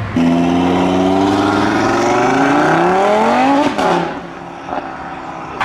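Car engine accelerating hard: a steady note, then revs climbing sharply for a couple of seconds before cutting off abruptly a little over halfway through, leaving a quieter engine sound.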